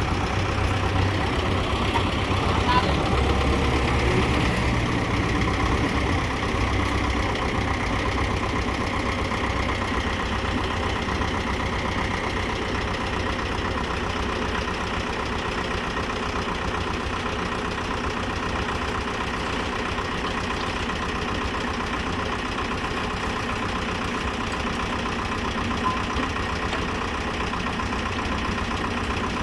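Kubota M6040SU tractor's diesel engine running steadily at a low, idle-like speed. It is a little heavier and louder in the first few seconds, then settles to an even note.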